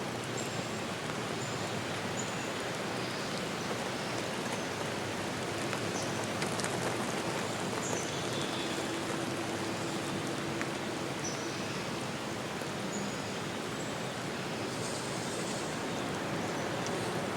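Steady rushing natural noise like running water or rain falling in a forest. Short high bird chirps come now and then, and a faint low hum is heard for a few seconds near the middle.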